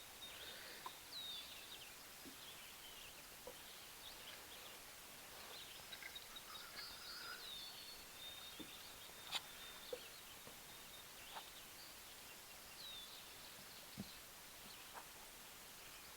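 Very quiet outdoor ambience with faint birdsong: many short chirps and whistles throughout. A few brief faint clicks are scattered through it, the clearest about nine seconds in.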